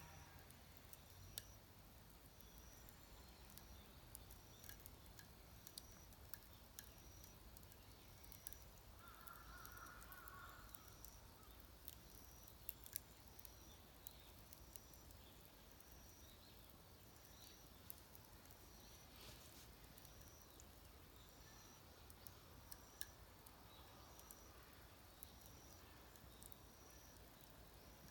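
Very faint outdoor ambience: a wood fire in a home-made fire pit crackling softly with scattered small pops, a short high chirp repeating about once a second, and one brief bird call about ten seconds in.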